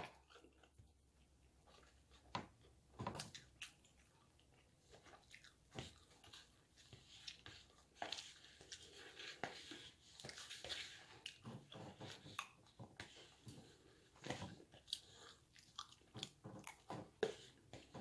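Faint close-up chewing and biting of food: wet mouth clicks and smacks, sparse at first and more frequent from about halfway through.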